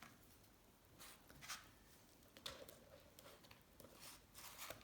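Faint, scattered scrapes and scratches, a few in all: gunk being scraped out of the salt-water-corroded aluminium engine case.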